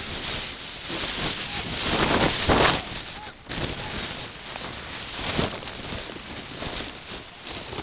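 Open-air noise of a football pitch: a steady rushing hiss that swells about two to three seconds in, with faint voices in the distance.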